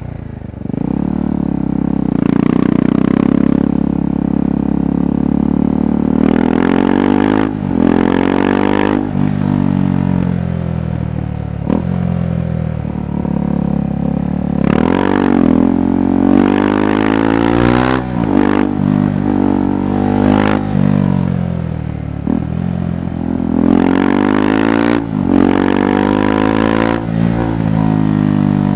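KTM 390 Adventure's single-cylinder engine and exhaust pulling hard, its revs climbing and dropping back again and again as the rider accelerates, shifts and rolls off through the bends.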